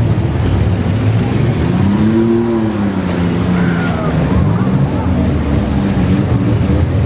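Several stripped minivan engines running and revving together, one revving up and back down about two seconds in.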